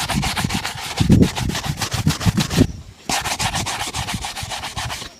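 A shoe being buffed or brushed during a shine, with fast back-and-forth rubbing strokes at about eight a second. The strokes break off briefly about halfway through, then start again.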